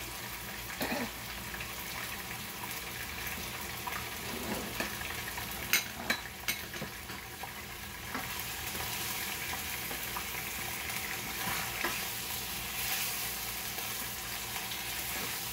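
Chicken pieces sizzling and frying in oil in a wok, with a few sharp clicks of the spatula against the pan about six seconds in. The sizzle grows a little louder in the second half as the pieces are stirred and turned.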